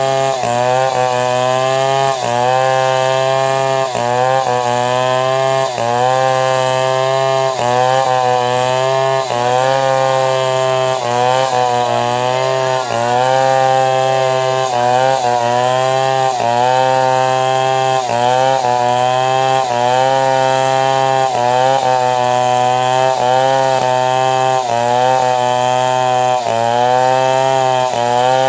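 Two-stroke chainsaw running at high throttle while ripping a log into planks. Its engine note sags briefly and recovers about once a second as the chain bites under load.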